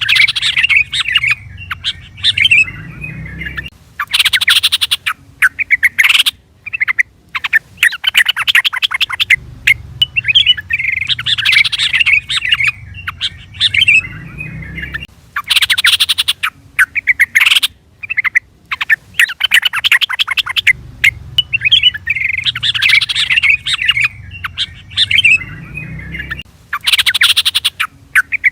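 Yellow-vented bulbul (trucukan) singing: bursts of quick, bubbly chattering phrases separated by short pauses. The same sequence comes round about every eleven seconds, a looped recording.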